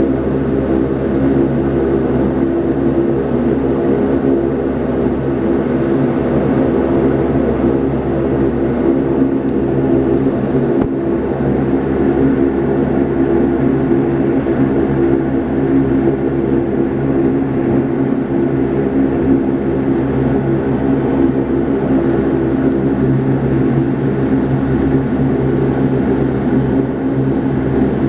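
Steady cabin drone of a Saab 340B's twin turboprop engines and propellers, a constant hum with several steady tones.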